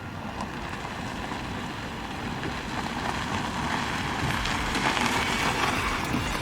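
Golf cart on the move: a steady rush of tyre and wind noise that slowly grows louder.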